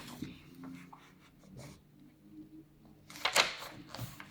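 Sheet of paper being folded in half: soft rustles, then a louder crinkling crease about three seconds in.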